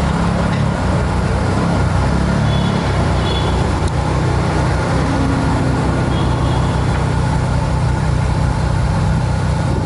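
Ferrari 458 Speciale's naturally aspirated 4.5-litre V8 running at idle, a steady low note that dips slightly in pitch about three seconds in.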